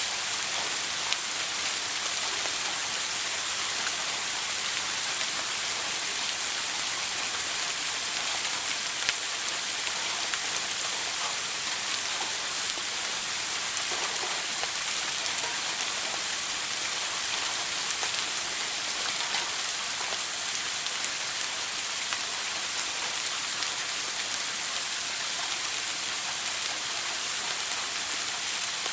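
A shower running steadily: water spray falling and splashing in an even hiss, with small scattered droplet ticks.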